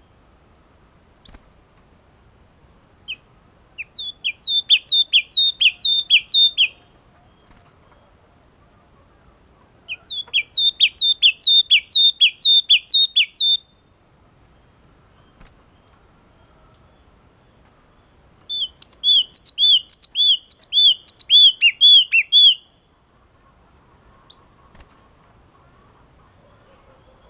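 Caged yellow-cheeked tit (chi chi mào) singing: three bouts of about ten to fifteen quick repeated two-part notes, each bout lasting three to four seconds, with pauses of several seconds between.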